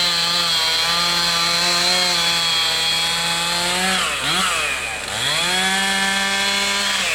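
Chainsaw engine revved up to full throttle and held there, dropping back briefly about four seconds in, then revved up and held again until it falls off at the end.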